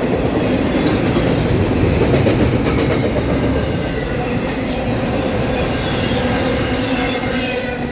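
Norfolk Southern freight train rolling past, a steady rumble of wheels on rail, with short high-pitched squeals coming and going.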